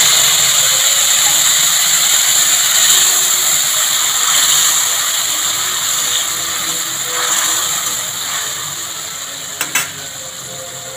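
Grated tomato sizzling in hot oil with whole cumin and whole garam masala in a kadai, a steady loud frying hiss that gradually dies down as the tomato cools the oil. There is a short knock near the end.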